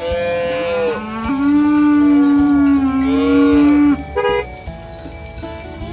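A cow mooing: one long, loud call of about four seconds whose pitch steps down about a second in, followed by a brief short tone.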